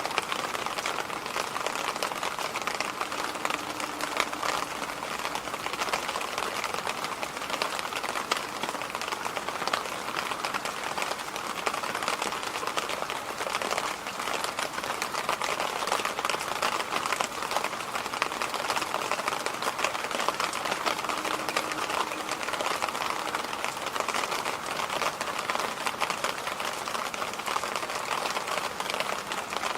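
Electric fan running steadily, a constant whoosh of moving air with a fine, fast rattle in it.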